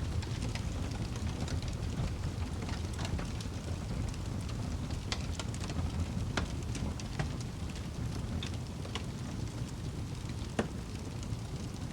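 Wood fire burning in a fireplace: a steady low rumble of flame with irregular sharp crackles and pops, the loudest pops about six seconds in and again near the end.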